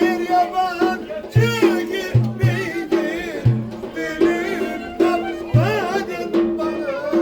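Turkish folk dance music (oyun havası): a wavering, ornamented melody over a held drone, with deep bass-drum strokes keeping an uneven dance beat.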